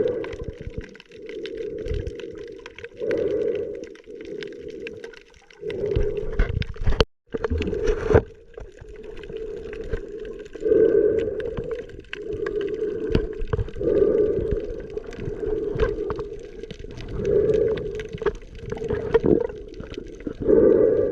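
Muffled underwater water sound from a camera held beneath the sea surface while snorkeling, swelling and fading every two to three seconds, with a brief break about seven seconds in.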